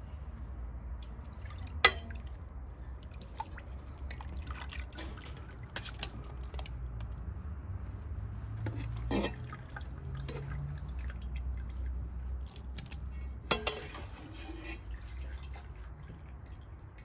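Water dripping and splashing, with scattered small clicks and a couple of sharp knocks, over a steady low rumble.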